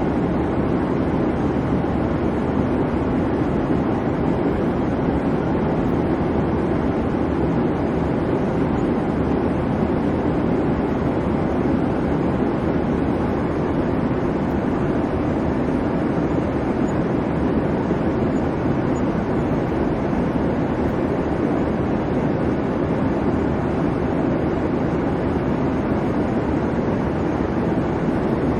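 Airliner cabin noise in flight: a steady low hum and rumble of engines and airflow, unchanging throughout.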